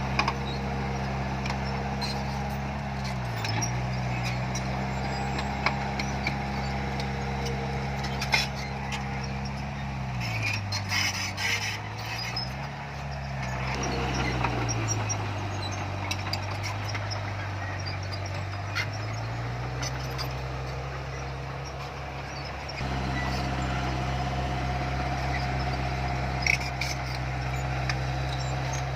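Diesel engine of heavy earthmoving equipment running, its pitch dipping briefly several times and settling lower for several seconds in the middle before rising again. Scattered clicks and knocks sound over it.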